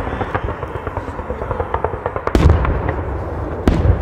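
Fireworks going off: a steady crackle of many small bursts, with two louder booms about two and a half seconds in and near the end.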